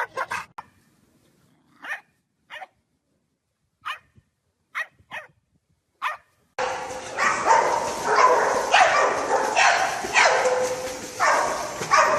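A dog barking and yipping: a few short separate yelps during the first half, then barking without a break from a little past halfway.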